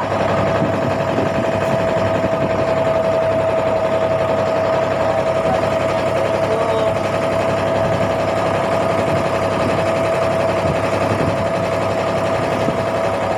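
Fishing boat's engine running steadily underway, an even drone with a constant whine that does not change in pitch.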